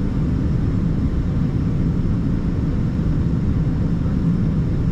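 Steady low rumble and hiss inside the cabin of an Embraer 190-E2 on the ground, before its engines are started.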